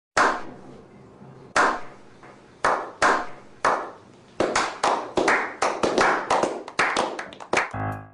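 A series of sharp cracks, like claps or small shots, each dying away quickly; they start about a second apart and speed up until they come several a second near the end.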